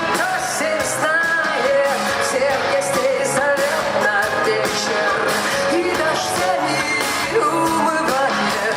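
Live rock band playing a song, with singing over the band and steady cymbal strokes.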